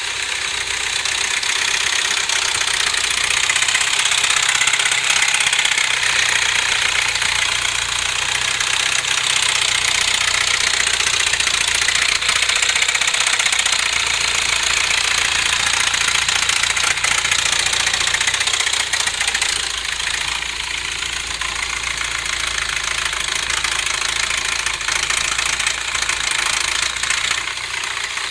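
BMW MINI R56 engine running just after start-up with a loud, rapid tapping clatter over the idle ("pata-pata"), an abnormal noise whose cause the owner does not know. The clatter eases slightly about twenty seconds in.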